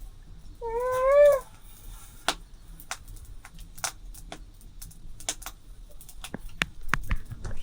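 A short vocal call, rising then falling in pitch, about a second in, followed by irregular sharp clicks and taps, several a second, until the end.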